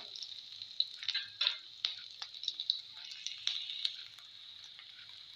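Chopped onion and garlic sizzling and crackling in hot mustard oil in a metal karahi. A spatula stirs and scrapes the pan in the first couple of seconds, then the sizzle goes on more quietly.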